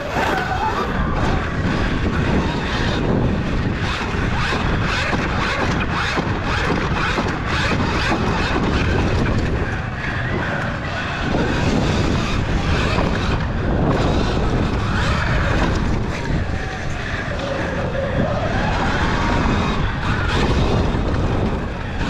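Heavy wind buffeting on a GoPro riding a Sur-Ron electric dirt bike at race pace, with a motor whine that rises and falls in pitch as the bike speeds up and slows.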